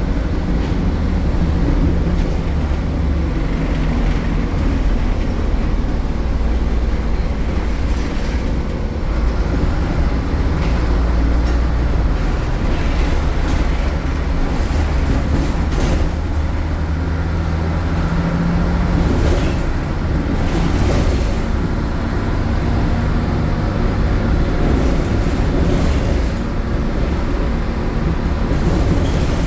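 Euro 4 MAN diesel engine of a MAN A76 Lion's City city bus running loud and steady under way, its low drone shifting in pitch as the revs change. A few short knocks or rattles come in the middle.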